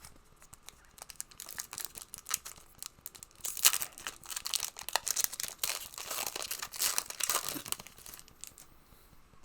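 Plastic wrapper of a trading card pack crinkling and tearing as it is ripped open: a dense run of crackles, loudest about three and a half seconds in, dying away near the end.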